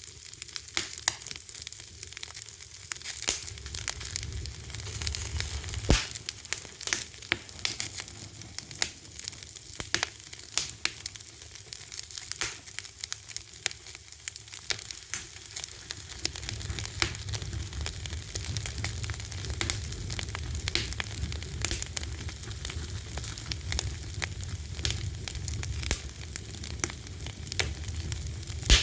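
Fire crackling with a dense run of sharp pops, a few of them louder. A low rumble comes in about halfway through.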